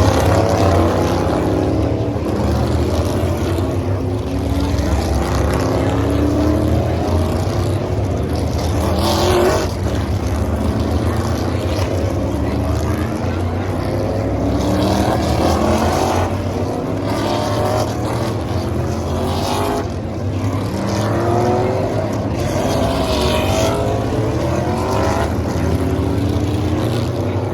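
NASCAR Cup Series stock cars racing past at full throttle, several V8 engines at once. Their pitch sweeps as each pack goes by, over a steady low engine rumble.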